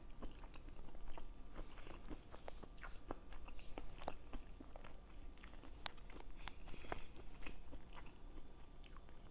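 A person chewing and biting food, with many irregular sharp mouth clicks and smacks.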